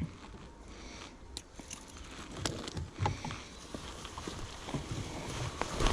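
Faint scattered knocks and rustles of handling on a small boat, with a few low thumps about halfway through.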